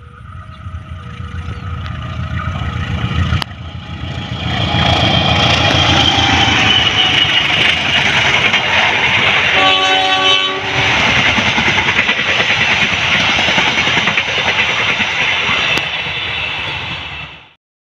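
Locomotive-hauled KAI passenger train passing close on the track, the rushing noise of wheels on rail building up over the first few seconds and then staying loud and steady as the coaches go by. A short horn blast sounds about ten seconds in, and the sound cuts off abruptly just before the end.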